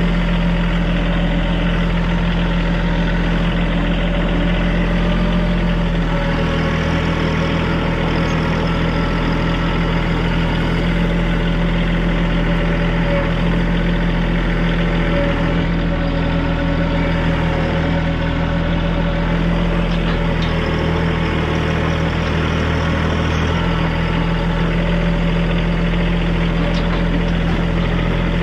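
TYM compact tractor's diesel engine running steadily under work, its low drone shifting slightly a couple of times.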